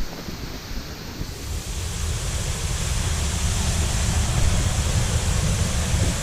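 Steady rushing of a waterfall, getting louder over the first few seconds, with wind buffeting the microphone.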